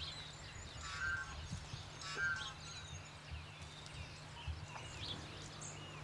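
Small birds chirping faintly, many short high calls scattered throughout, over a steady low hum.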